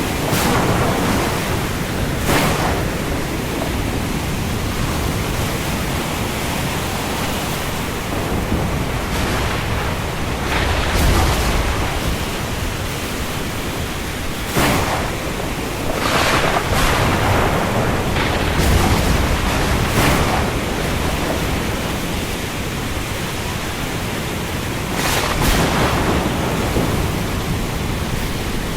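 Steady rain falling on the open sea, a dense even hiss, with brief louder whooshes several times at irregular intervals, like gusts or breaking waves. There is no thunder.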